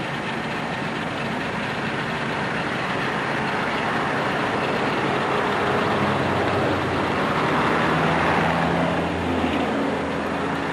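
A vehicle driving along: a steady rush of road and engine noise, with a low engine hum growing stronger in the last few seconds.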